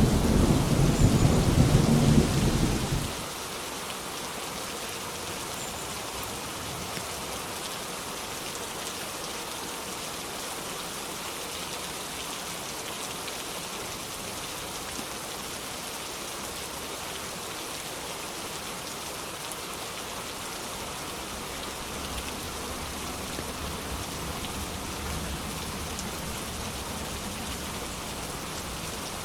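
A thunder rumble over steady rain, cutting off abruptly about three seconds in; after that, only the even hiss of the rain falling.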